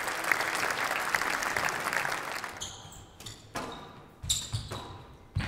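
Audience applauding, dying away about halfway through. Then a squash ball is struck and bounces off the court walls several times, with sharp shoe squeaks on the court floor.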